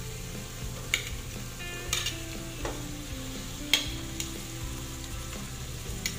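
Chicken gizzards going into hot oil with sautéed garlic, onion and chili in a stainless pot, sizzling steadily. A metal spoon clinks sharply against the plate and pot a few times, loudest a little past the middle.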